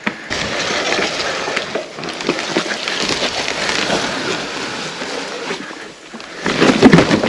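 Mountain bike rolling down a rough dirt-and-grass trail: tyres on loose ground, with many small clicks and rattles from the bike, fading near the end.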